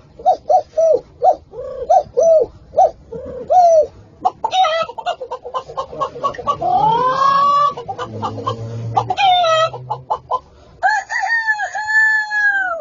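Chicken-like calls: a quick run of short clucks, about three a second, then a rising call, and near the end a long, held crow like a rooster's.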